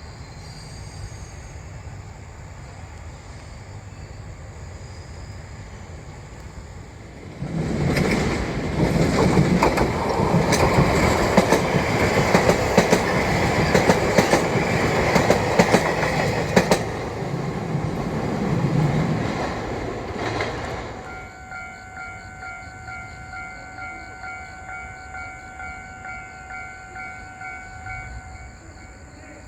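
A train passes over a railroad crossing: the low rumble of its approach turns loud about seven seconds in, with a steady clickety-clack of wheels over rail joints, and fades about twenty seconds in. As it goes, the crossing's electronic warning bell is heard ringing in an even, repeating ding, and it stops just before the end.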